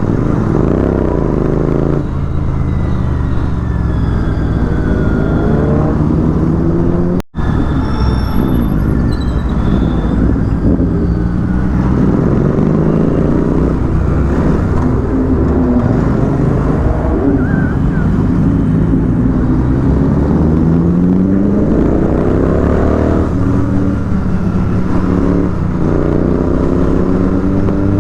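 Royal Enfield Continental GT 650's parallel-twin engine pulling through the gears while riding, its pitch rising and falling again and again over heavy wind rush. The sound cuts out for an instant a little past 7 seconds in.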